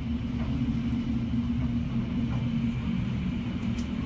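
Hurricane-force wind heard from inside a house as a steady low rumble, with a constant low hum running under it.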